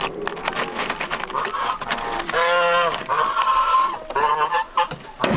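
Honking calls of domestic fowl. The loudest is a long call about two and a half seconds in, followed by two shorter calls, over a few light knocks.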